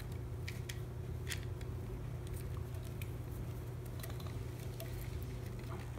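Faint scattered clicks and rustling of hands handling and tucking electrical wires, over a steady low hum.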